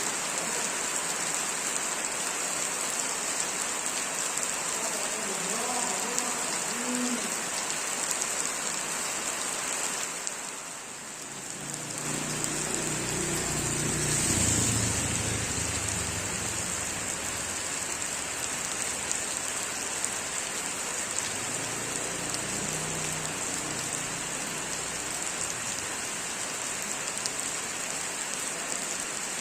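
Heavy rain falling steadily in a continuous hiss. About twelve seconds in, a low rumble swells and fades over several seconds beneath the rain.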